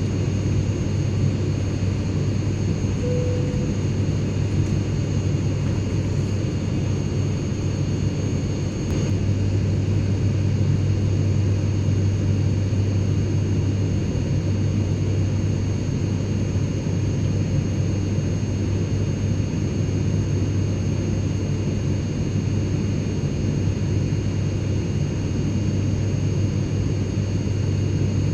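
Airplane cabin interior noise: a steady, even rumble heaviest in the low end, with a few faint, steady high-pitched tones over it.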